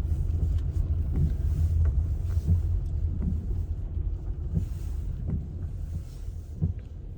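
Steady low road rumble of a car heard inside the cabin, with scattered light ticks.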